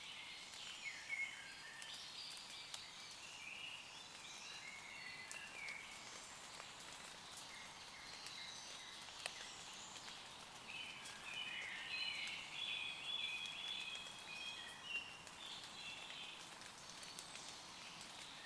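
Light rain pattering and dripping on leaves, with scattered drop clicks, while several woodland songbirds sing; the birdsong is busiest a little past the middle.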